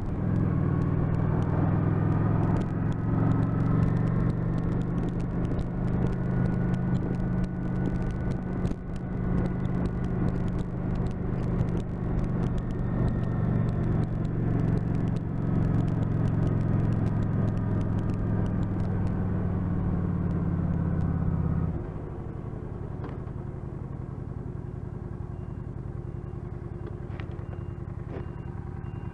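Motorcycle engine running steadily while under way. About 22 seconds in, the engine note drops and goes quieter as the bike slows to idle.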